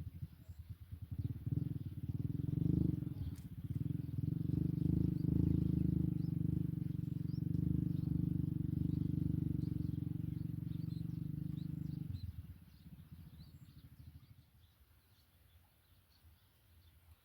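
A motor vehicle engine running with a low, steady drone, fading away about twelve seconds in. Faint short, high bird chirps sound over it.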